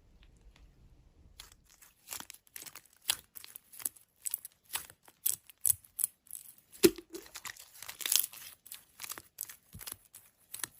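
Slime being squeezed and worked by hand, giving an irregular run of crackling pops and clicks that starts about a second and a half in.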